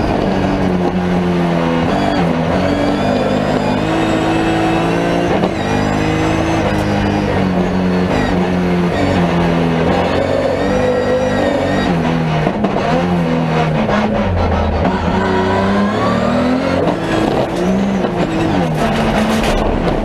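Race car engine heard from inside the stripped cabin, revving hard through the gears: the pitch climbs, drops at each shift, and climbs again, over steady road and tyre noise.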